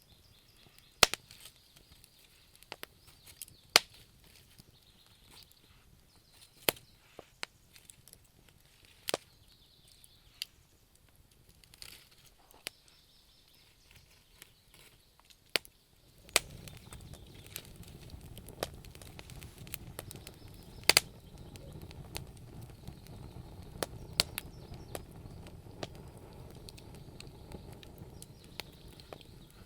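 Wood fire burning in a fireplace, crackling with sharp pops at irregular intervals. About halfway through a steady low rushing sound comes in beneath the crackles.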